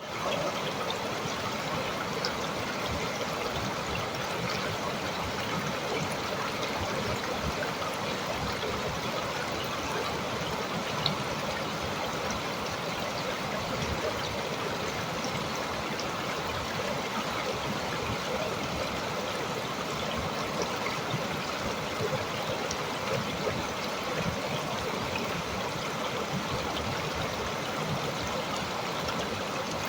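Running water from a stream, flowing with a steady, even rush, with one brief click about eleven seconds in.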